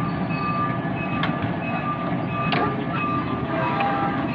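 Miniature railway train running, a steady rumble of wheels on track with a high squeal that keeps stopping and starting. Two sharp clicks come about a second and a quarter and two and a half seconds in.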